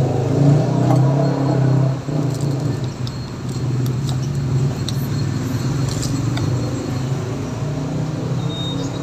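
Steady low hum of a motor vehicle engine running, louder over the first two seconds and then even, with faint sharp clicks of a cat crunching dry kibble.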